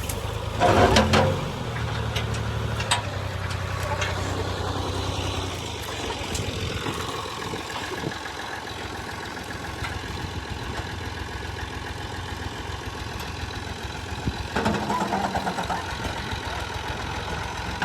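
Diesel engine of an old combine harvester running steadily, louder for a moment about a second in and again around fifteen seconds in.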